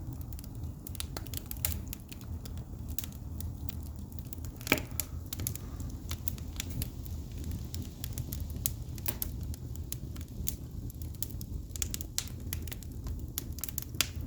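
Pine logs burning in an open fireplace, crackling and popping many times at irregular intervals over a low steady rumble of the flames, with one loud pop about five seconds in.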